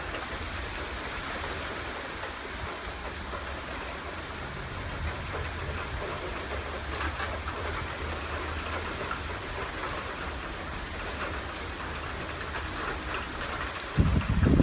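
Torrential rain pouring down steadily in a thunderstorm. Near the end, a sudden gust of wind buffets the microphone.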